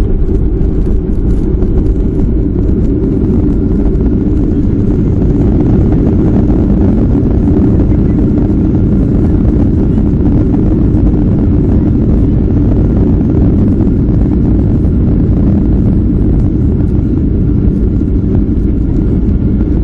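Steady, loud low rumble inside the cabin of a Boeing 737-400 just after landing: the CFM56 engines and the airflow and wheels running on the runway as the airliner rolls out.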